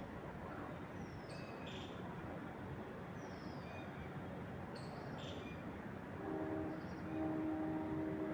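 Wind through trees with birds calling: a short falling whistle followed by chirps recurs every few seconds. About six seconds in, a distant horn sounds a steady chord of low tones, breaks briefly and sounds again, and is the loudest thing heard.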